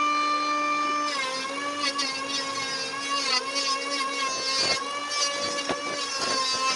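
Electric woodworking power tool running at speed with a steady whine; about a second in the pitch sags slightly and then wavers as it bites into wood.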